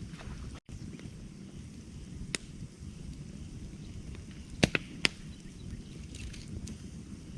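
Campfire burning wood, with a steady low rumble and hiss broken by sharp crackling pops. The loudest are two pops about half a second apart, a little past halfway through. The sound cuts out for an instant just after the start.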